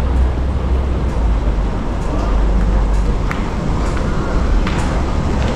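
Steady low rumble and hiss of a moving train or vehicle, with a few faint clicks.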